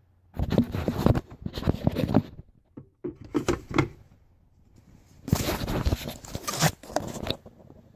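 Rustling, scraping and knocking of objects being handled, in several short bursts with a quiet pause about halfway through.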